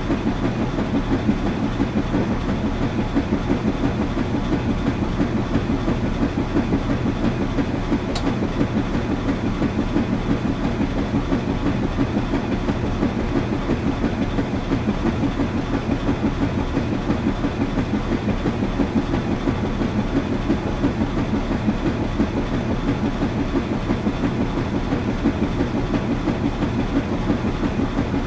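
Washing machine running: a steady low rumble with a fast, fine flutter, and a single faint tick about eight seconds in.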